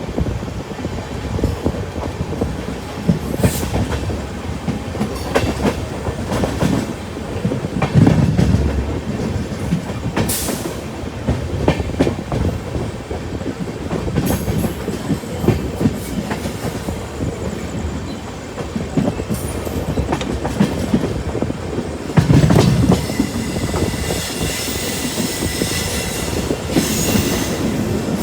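Passenger train running on the rails, its wheels clattering and knocking over rail joints. A high, whining wheel squeal sets in about three-quarters of the way through.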